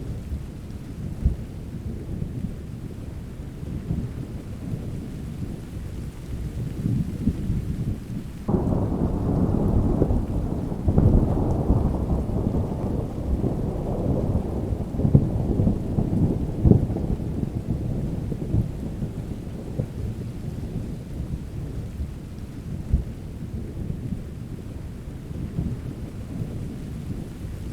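Thunderstorm: rain with low, continuous rolling thunder. About a third of the way in, a louder thunder roll sets in suddenly and fades away over about ten seconds.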